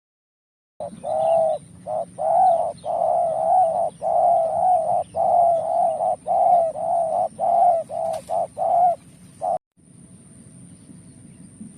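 Spotted dove (tekukur) cooing loudly and close, a rapid run of repeated coo phrases that stops abruptly near the end.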